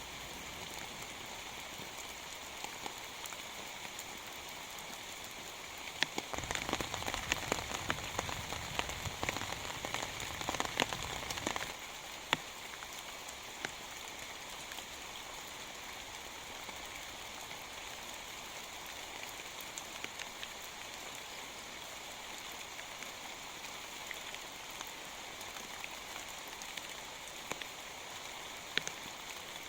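Steady heavy rain pattering on a surface, with scattered sharp drop taps. About six seconds in, it grows louder for roughly six seconds, with denser sharp taps and a low rumble, then settles back to the steady patter.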